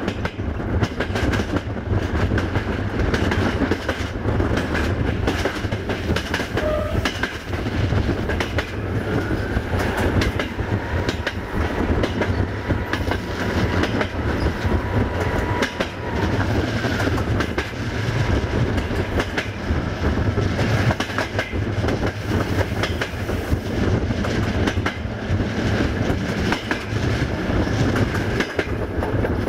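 Class 614 diesel multiple unit running along the line, heard on board: a steady low rumble with wheels clattering over rail joints.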